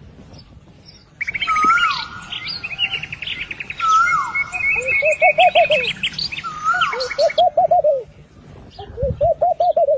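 Morning birdsong: a dove repeating a short cooing phrase of four or five notes every couple of seconds, with a songbird's fast trills, chirps and falling whistles over it that stop abruptly about three-quarters of the way through.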